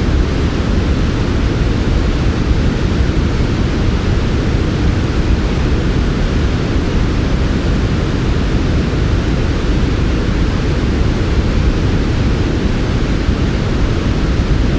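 Synthetic white noise for sleep playing as a steady, unchanging rush. It is heaviest in the low end, with a softer hiss above.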